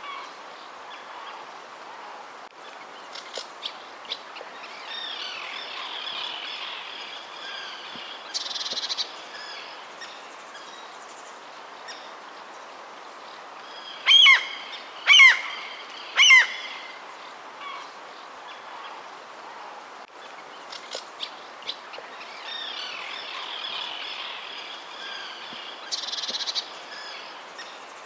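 Wild birds calling and chirping over a steady background hiss, with a dense patch of chirping about a third of the way in and again near the end. Three loud, downward-sliding calls come in quick succession around the middle.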